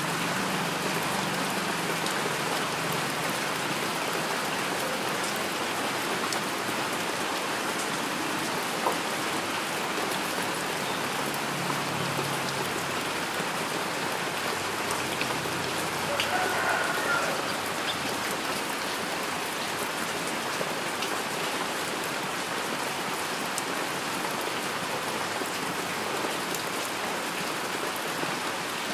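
Steady heavy rain falling, a dense even hiss with individual drops ticking here and there.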